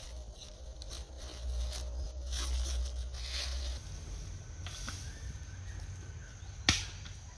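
Outdoor ambience with scattered rustling and scraping noises over a steady low rumble, and one sharp knock near the end.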